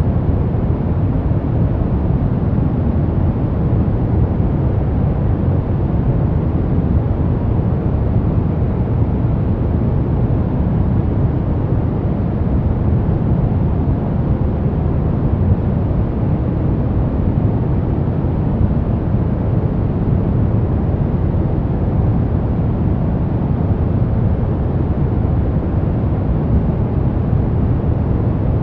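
Steady sleep-noise track: an even, deep rushing noise, heaviest in the bass and soft in the treble, with no changes or breaks.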